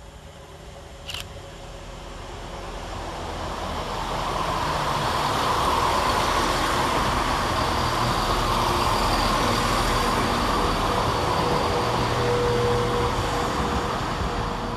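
ScotRail Class 170 Turbostar diesel multiple unit running through the station. Its engine and wheel noise build over several seconds, hold with a steady whine, then ease off near the end. A short click about a second in.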